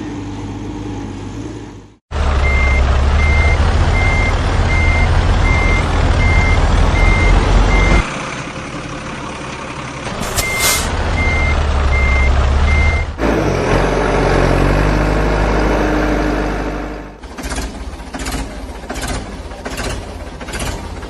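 Heavy vehicle engine running with a reversing alarm beeping at a steady pace, in two runs of beeps. About ten seconds in comes a short hiss like an air brake, and near the end a run of regular knocks about twice a second.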